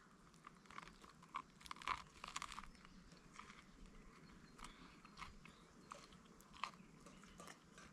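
Faint crunching and chewing: a person biting into and eating a double burger with salad, in irregular small crunches.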